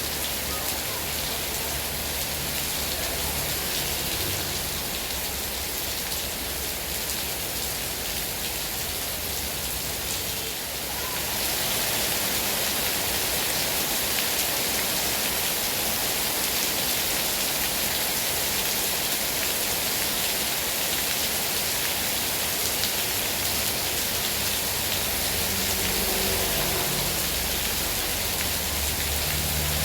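Heavy rain falling steadily, a dense even hiss of drops. It gets a little louder about eleven seconds in.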